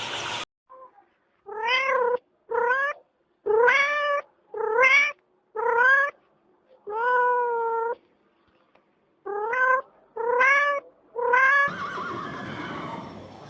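A cat meowing about nine times in a row, each meow short and rising in pitch, with one longer drawn-out meow near the middle. Near the end a steady background hiss takes over.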